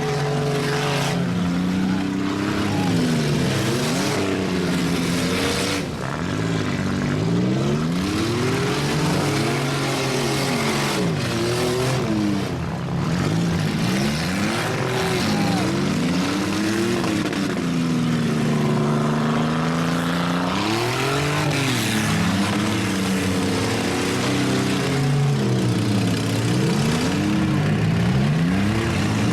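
Several demolition derby cars' engines revving up and down together, with a few sharp bangs of cars colliding.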